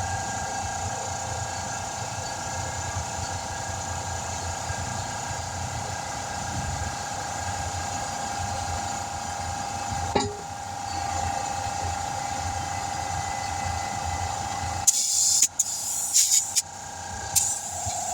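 A machine runs with a steady hum and low rumble, with a sharp click about ten seconds in. Near the end come several short, loud bursts of rushing air as air is shot into a tire to seat its bead on the rim.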